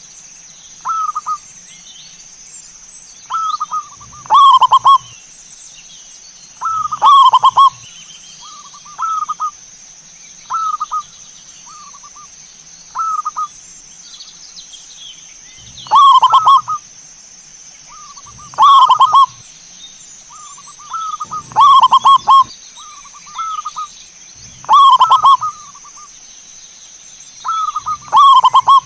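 Zebra dove (perkutut) cooing: short, rolling trilled phrases repeated every second or two, with louder, fuller coos about seven times.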